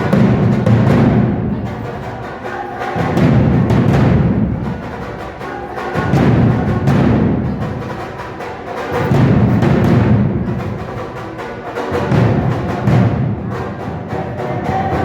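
Drumming for a danza: deep drums beaten in a steady, driving rhythm under many quick, sharp strikes, the low drum sound swelling and easing about every three seconds.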